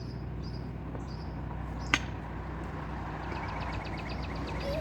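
One sharp knock about two seconds in, then a fast, high ticking trill over a steady low hum.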